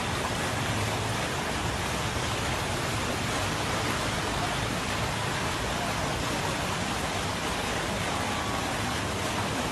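Steady, even rush of water from heavy rain and flash floodwater.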